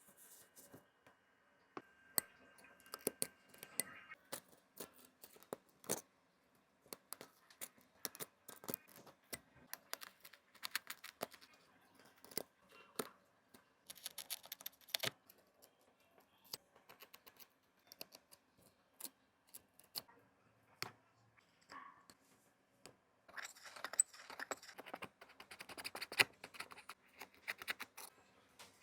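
Small hand tools clicking, tapping and scraping on a Samsung Galaxy A55 phone while its camera lens is repaired, with longer stretches of scratching about halfway through and again near the end.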